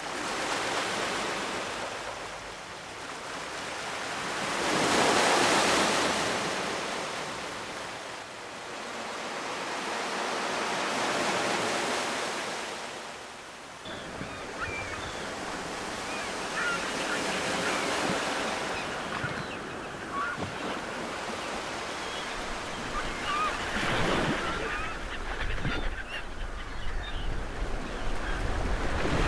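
Ocean surf: waves breaking and washing ashore in slow swells a few seconds apart. From about halfway, birds call faintly over the surf, and wind rumbles on the microphone near the end.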